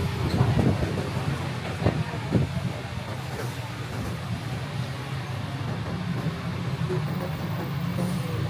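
Steady low rumble of a sightseeing bus's engine mixed with city traffic, with a few brief sharper sounds in the first few seconds.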